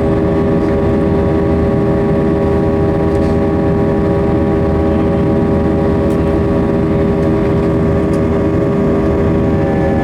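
Airbus A320's IAE V2500 turbofan engines running at high thrust, heard from inside the cabin: a steady roar with several steady whining tones over it. Near the end a new higher whine enters and the tones drop slightly in pitch.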